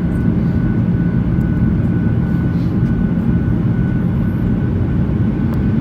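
Aircraft cabin noise: a loud, even low rumble of engines and airflow, with a faint steady whine above it.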